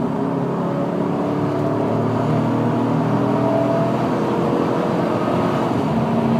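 GMC pickup's 4.8-litre V8 engine running at full throttle, pulling the truck hard from 60 mph on the highway, a steady loud engine note under acceleration.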